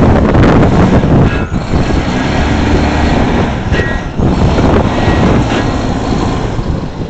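A truck's engine running hard while the truck is stuck on ice, with a dense, steady rumble and two brief high whines, one about a second in and one about four seconds in. Wind buffets the microphone.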